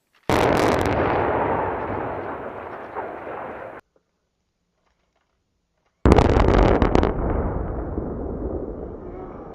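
Two demolition blasts from explosive charges on a reinforced concrete building. Each opens with a burst of sharp cracks and then rumbles away, fading. The first cuts off suddenly about 3.5 seconds in, and the second begins about 6 seconds in.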